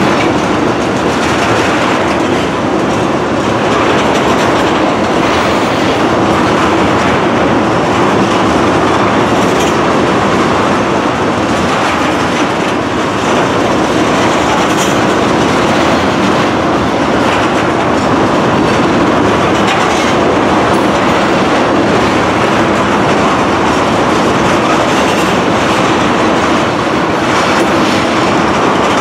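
Freight train of loaded tank cars rolling past at steady speed. Loud, even rumble of steel wheels on rail, with wheels clicking over rail joints.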